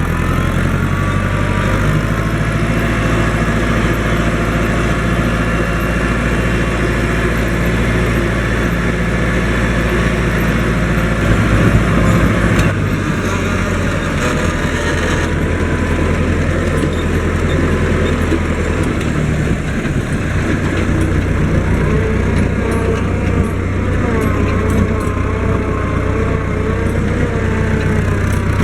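Fendt Farmer 106 S tractor's diesel engine running steadily, its engine note shifting about 12 seconds in and again around 19 seconds.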